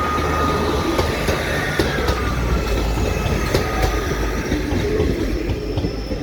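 A train rolling along the track: a low rumble with wheels clicking over the rails, and a thin wheel squeal that fades and slides down in pitch partway through.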